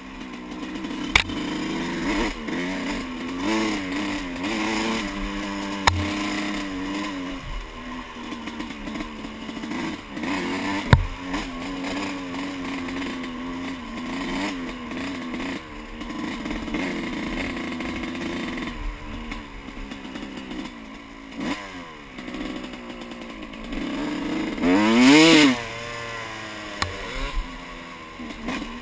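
Yamaha YZ125 125cc two-stroke single-cylinder dirt bike engine under way, its pitch rising and falling as the throttle opens and closes, with a few sharp knocks in the first half. Near the end it revs up hard, the loudest moment.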